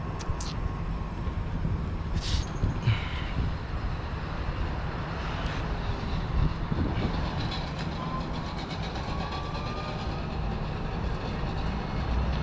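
Semi-truck diesel engine idling steadily, a constant low rumble, with a few short clicks and knocks over it.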